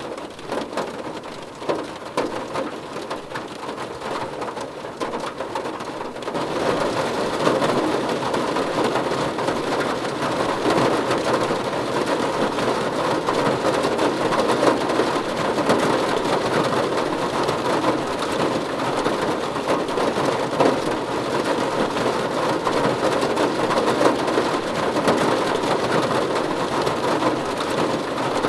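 Steady heavy rain falling on a surface, a dense patter that grows louder and heavier about six seconds in.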